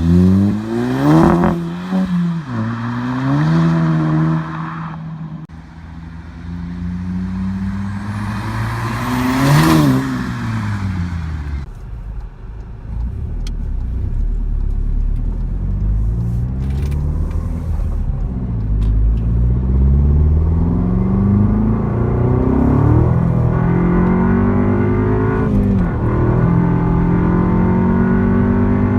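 Mk7 Volkswagen Golf GTI's turbocharged 2.0-litre four-cylinder heard through a custom single-sided exhaust: two sharp revs, one near the start and one about a third of the way in, then a long pull with the pitch climbing steadily and dropping back twice near the end as the car shifts up.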